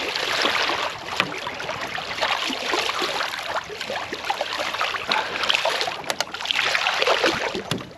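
Water splashing and lapping around a small fishing boat, with a few sharp knocks and clicks.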